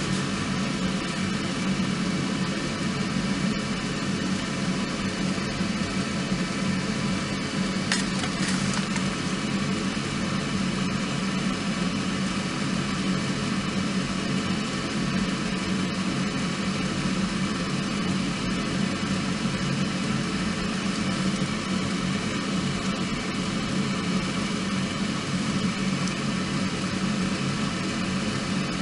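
Small wood fire burning steadily in a compact fire pit, a constant hiss over a low steady hum, with a single brief crackle about eight seconds in.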